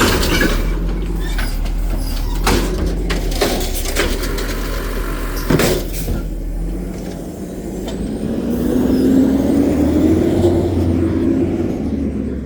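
Recycling truck's engine running, with a few sharp knocks in the first six seconds. About eight seconds in, the engine revs up with a rising tone.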